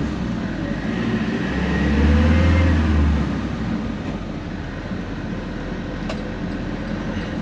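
Temsa Prestij SX midibus running under way: engine and drivetrain noise with a deep drone that swells twice in the first three seconds alongside a faint rising whine, then settles into a steadier, slightly quieter run.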